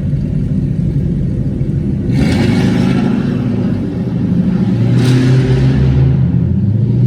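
Loud car engines running and revving, with a deep rumble throughout. Near the end one engine's pitch climbs steadily as it revs up.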